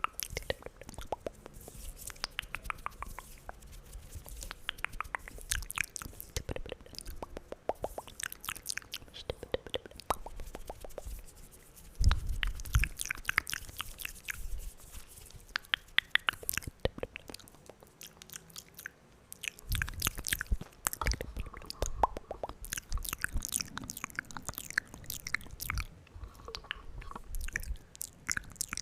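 Close-miked wet mouth sounds: rapid tongue clicks and lip smacks running on without pause, with louder stretches about twelve and twenty seconds in.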